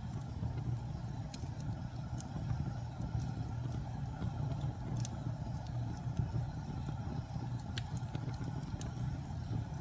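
Fire burning in a fireplace: a steady low rumble with scattered sharp crackles every second or so.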